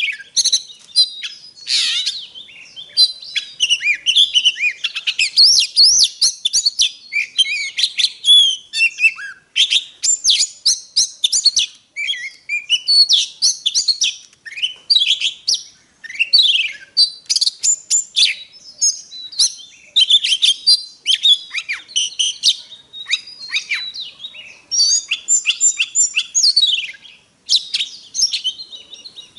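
Oriental magpie-robin singing a long, varied song of quick rising and falling whistles and scratchy notes, with only short pauses.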